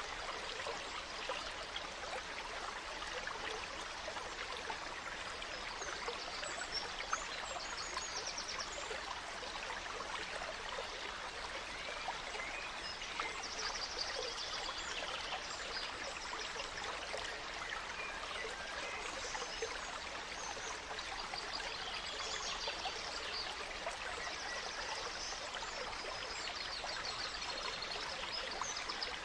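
A gentle stream running steadily. Small forest birds chirp over it, and several rapid high trills come about halfway through and again near the end.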